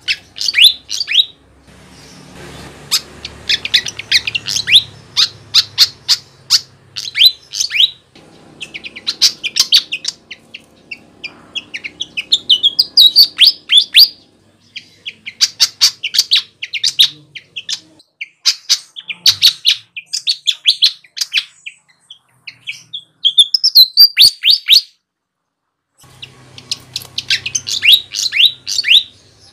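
Sikatan (flycatcher) singing vigorously (gacor): phrases of rapid, sharp, high chattering notes separated by short pauses, with a brief silent gap near the end.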